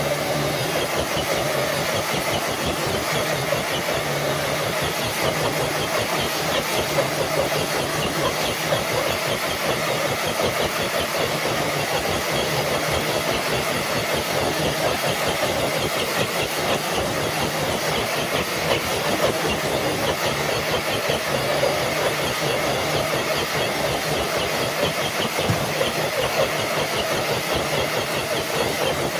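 Electric RC crawler truck's motor and geared drivetrain running steadily under load while dragging a weighted sled.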